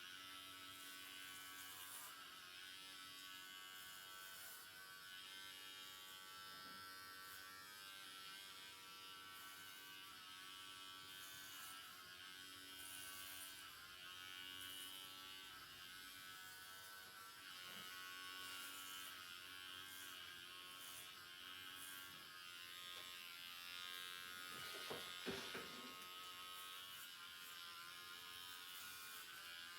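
Electric hair clippers running with a steady buzz as they cut hair, with a few sharp clicks about five seconds before the end.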